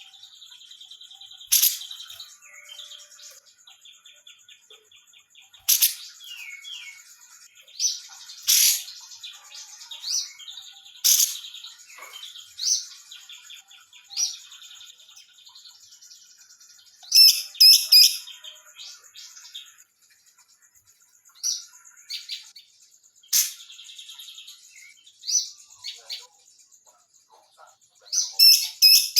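Female grey-cheeked bulbul (cucak jenggot) calling steadily. It gives loud, sharp, high notes every few seconds, with quick runs of several notes about two-thirds of the way in and again near the end, over a faint steady trilling in the background.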